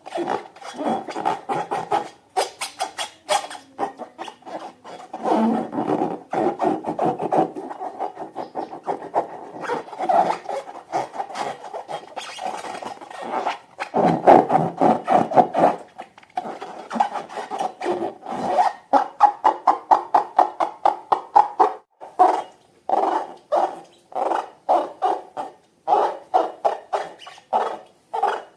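Slime being squeezed and stirred by hand, a continuous run of sticky squelches and clicks. In the second half these settle into a steady rhythm of two or three a second.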